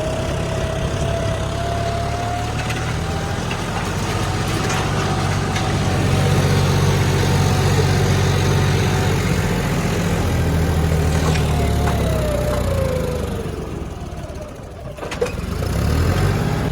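John Deere 5405 tractor's diesel engine, its pump modified, running steadily under load while pulling a disc harrow, with a whine over the drone. About thirteen seconds in the whine falls and the engine note drops briefly, then picks up again near the end.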